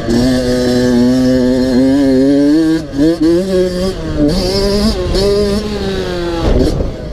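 Small dirt-bike engine run hard at high revs, its pitch dropping sharply at gear changes about three and four seconds in, then falling away and climbing again near the end.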